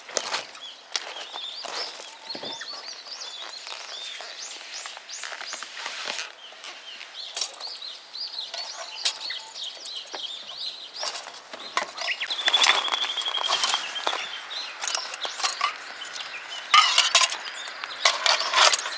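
Wild birds chirping and calling over and over in short, quick notes, with a longer trill partway through and scattered clicks and rustles.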